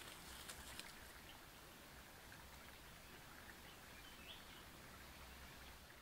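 Faint rustling and light clicks of dry leaves in the first second as a snared small ground bird flaps, then near-silent forest ambience with a single faint high chirp a little past the middle.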